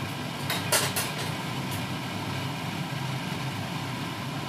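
Steady low machine hum, with a few short clicks about a second in.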